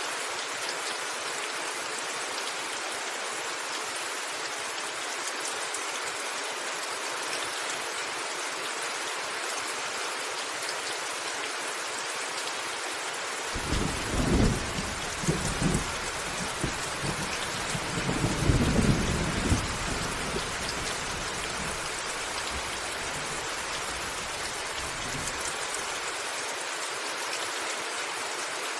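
Steady heavy rain on a roof, with a rumble of thunder from about halfway in that swells twice and dies away a few seconds before the end.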